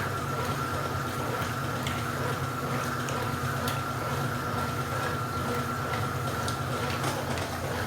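Washing machine running its rinse, with a steady motor hum and water sloshing in the drum; a steady whine stops about seven seconds in.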